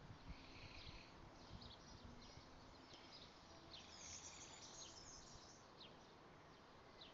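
Faint, distant birdsong: scattered chirps and short phrases over a quiet outdoor background, with a livelier stretch of chirping about four seconds in.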